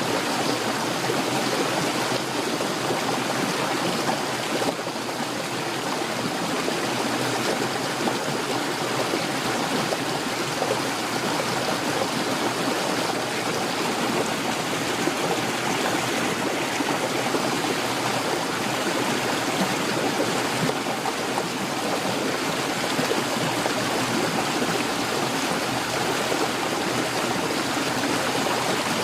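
Heavy rain pouring steadily, a dense even hiss without breaks.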